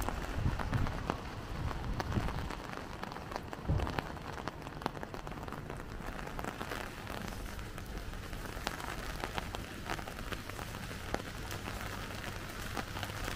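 Heavy rain falling on hard surfaces, with many sharp drop ticks close by. A low rumble sits under it in the first few seconds.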